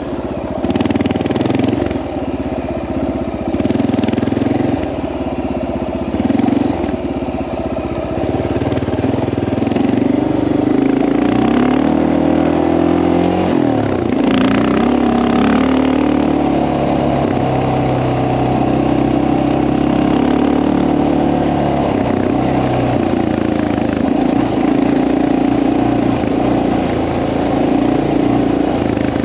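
Honda XR650L's single-cylinder four-stroke engine running while being ridden. The revs rise and fall through the first half, then hold fairly steady from a little past the middle.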